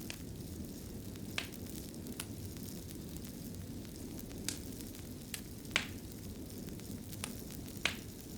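Wood fire burning in a fireplace: a steady low rumble with irregular sharp crackles and pops, a few louder snaps among them.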